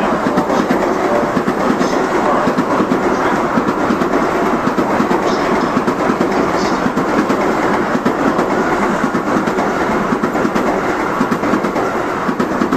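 A Tokaido Shinkansen N700-series train running past, a loud steady rush of wheel and rail noise that begins to fall away at the very end as the last car goes by.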